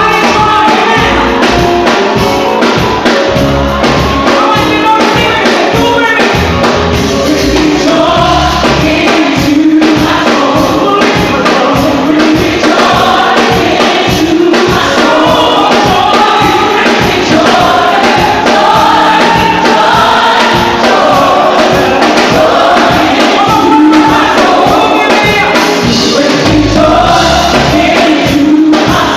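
Live gospel worship music: a choir singing loudly over band accompaniment with a steady beat.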